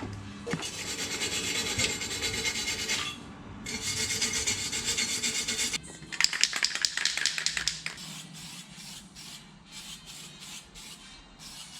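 Rasping, scraping strokes in two stretches, then a louder run of sharper strokes about six seconds in, giving way to quieter scraping near the end.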